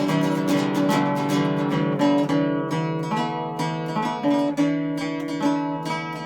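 Instrumental acoustic guitar music: quick plucked notes, busy at first and then thinning to more spaced-out picked notes after about two seconds.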